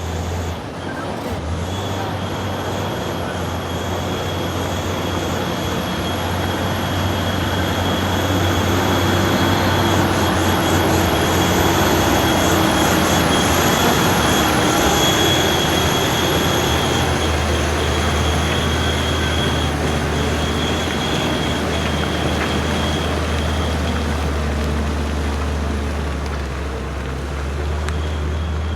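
Heavy truck engine running hard under load while climbing a slippery incline, the noise swelling to its loudest around the middle and easing off toward the end.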